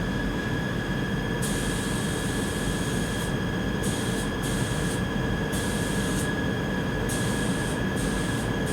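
Paint booth extraction fans and filtered ventilation running steadily, a constant rushing noise with a steady whine on top. A higher hiss switches on and off several times.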